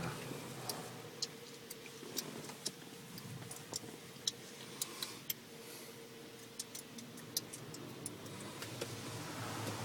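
Irregular sharp ticks, about one or two a second, over a faint steady hum, heard from inside a car's cabin in an automatic car wash.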